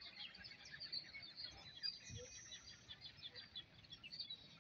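Faint chirping of birds, many short calls overlapping, with one higher held note about two seconds in that lasts about half a second.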